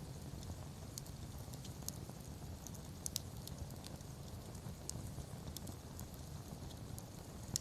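Wood campfire crackling, with irregular sharp pops and snaps over a low steady rumble of the flames; the loudest pop comes near the end.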